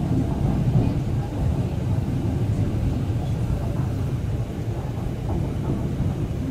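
Cabin noise inside a moving MTR East Rail Line R-train electric multiple unit: a steady low rumble of wheels on rails and running gear.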